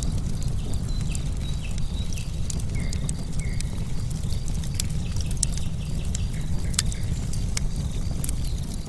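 Bonfire logs crackling and popping in irregular sharp snaps over a steady low rumble of the fire. A few short bird chirps sound around the middle.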